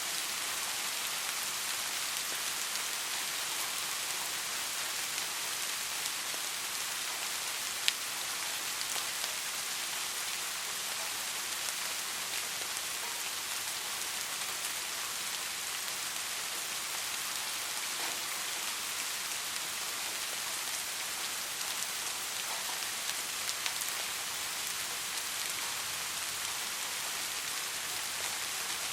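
Steady soft rain falling, an even hiss with scattered individual drops ticking, one sharper drip about eight seconds in.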